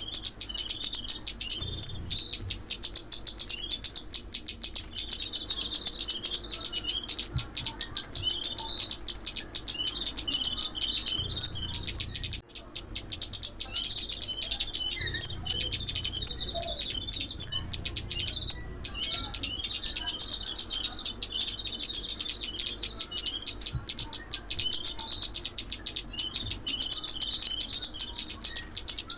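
Sunbird (chim ốc mít) song played as a trapping lure: rapid, high-pitched twittering chirps in long repeated phrases, broken by brief pauses.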